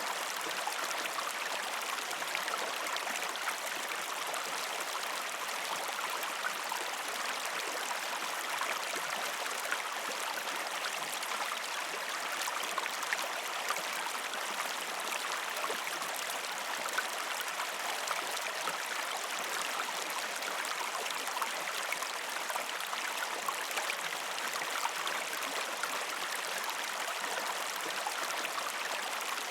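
Gentle river stream flowing over rocks: a steady rushing and babbling of water, with many small splashes and trickles, and no deep rumble.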